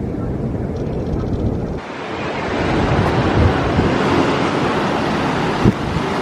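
A low steady rumble cuts off about two seconds in. It gives way to a wide rushing hiss of wind on the microphone and ocean surf, with a couple of short thumps near the end.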